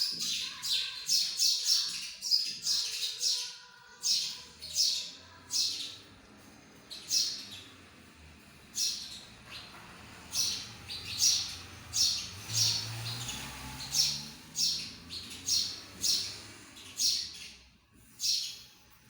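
Small birds chirping: a quick run of high, short chirps over the first few seconds, then single chirps about once or twice a second.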